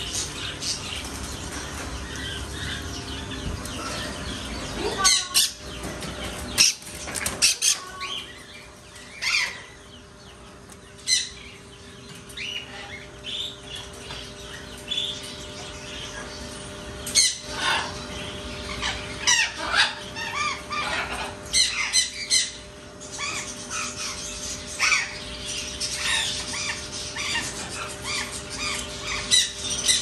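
Caged birds chirping and calling throughout, with several sudden loud calls scattered through, over a faint steady hum.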